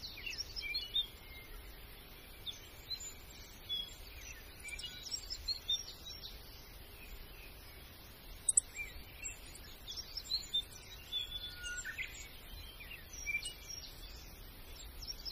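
Small birds chirping and calling: many short, high chirps and quick whistled glides, scattered irregularly, over a faint steady background noise.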